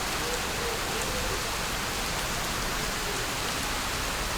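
Steady rushing hiss of falling water.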